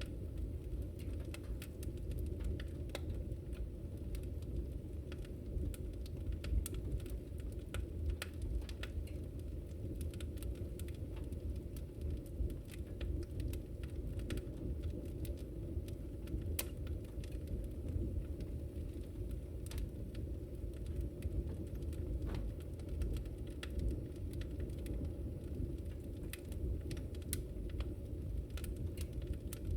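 Wood fire burning in a fireplace: a steady low roar of the flames with frequent sharp, irregular crackles and pops.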